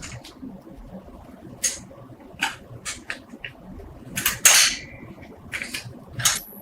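Irregular light clicks and taps of small hard objects being handled, with a louder brief scrape about four and a half seconds in.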